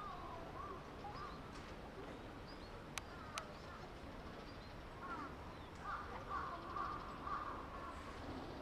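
Faint outdoor ambience with short bird calls repeating throughout, busiest in the second half, and two sharp clicks about three seconds in.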